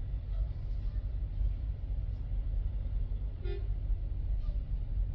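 Steady low rumble of an idling truck engine, with one short toot from a vehicle horn about three and a half seconds in.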